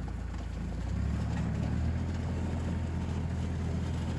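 An engine running steadily, picking up speed and getting louder about a second in.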